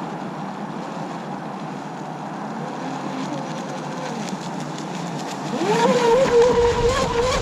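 Battery-powered electric motor of a radio-controlled flatbottom drag boat running. About five and a half seconds in, its whine rises quickly in pitch and holds steady and high, the loudest part, as the boat speeds up.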